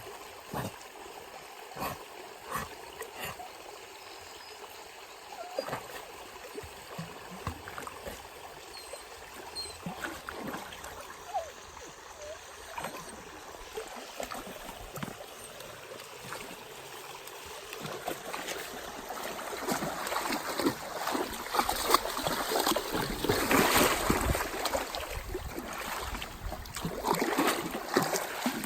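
A golden retriever splashing in a mountain stream, over the steady sound of running water. The splashing grows louder and busier in the second half.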